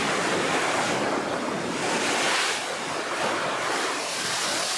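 Rough sea ahead of a typhoon: heavy surf, with waves breaking and washing in one after another in rising and falling swells.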